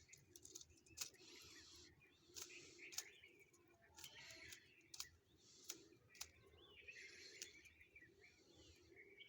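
Chukar partridge calling in short, scratchy bursts every second or two, with sharp clicks scattered between the calls.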